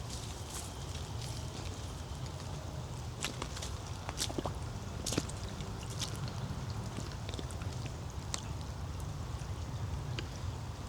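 Rainwater dripping from wet trees after a rain shower: scattered sharp drops, a few louder ones about four and five seconds in, over a low steady rush.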